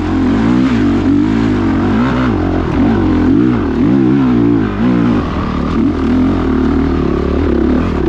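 Off-road motorcycle engine revving, its pitch rising and falling over and over as the throttle is opened and closed.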